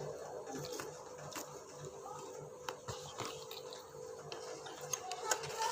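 Quiet eating sounds: scattered sharp clicks and taps, more frequent near the end, over a steady background hum with a fast, even low pulse.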